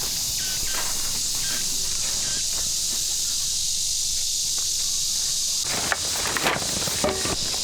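Insects buzzing in a steady high hiss, with a few short knocks near the end.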